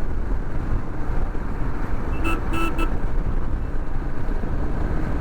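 Steady road and wind rumble of a motorcycle ride. About two seconds in, a vehicle horn gives three short toots.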